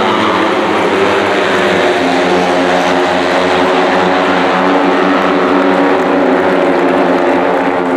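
Loud, steady engine sound, with several engine notes overlapping and changing pitch only slowly.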